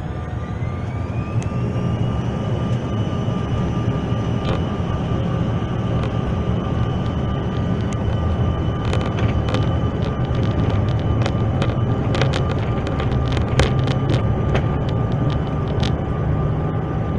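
CRJ-900 regional jet's rear-mounted GE CF34 turbofans spooling up to takeoff thrust, heard inside the cabin: a whine rising in pitch over the first two seconds then holding steady under a loud rumble. From about halfway on, many quick rattles and knocks as the airliner rolls down the runway.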